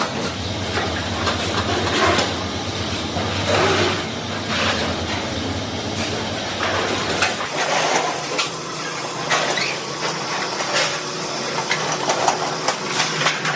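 Factory machinery noise: a steady low machine hum that cuts off about seven and a half seconds in, under hissing and repeated metallic clanks and knocks.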